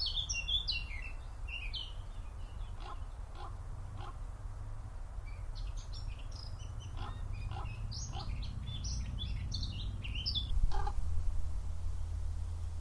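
Songbirds chirping and twittering in quick high phrases, in two spells separated by a lull, with a few short lower calls in between. A steady low rumble runs underneath.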